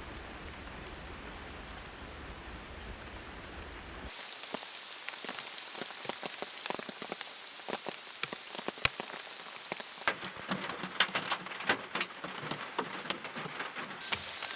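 Rain falling in a forest. A steady even hiss for the first few seconds changes abruptly about four seconds in to a closer patter of many distinct drops striking nearby surfaces, with occasional louder single drips.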